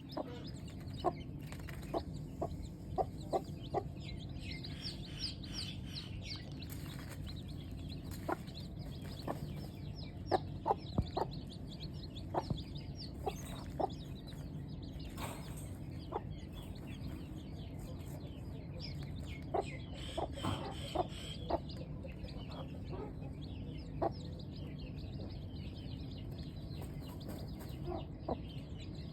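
Newly hatched chicks peeping in quick high runs, mixed with short clucks from a grown chicken, over a steady low hum.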